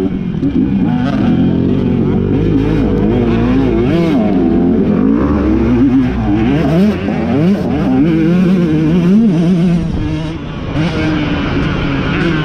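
Several off-road racing motorcycle engines revving, their pitch rising and falling over and over as the riders open and close the throttle.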